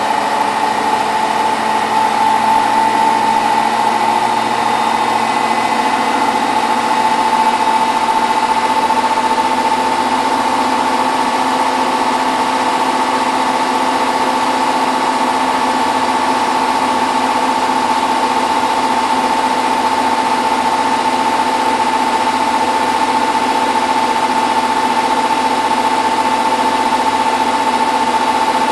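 Hotpoint WT960 washing machine in its final spin, drum turning at high speed toward 1600 rpm with a steady motor whine that edges slightly higher in pitch over the first several seconds and then holds.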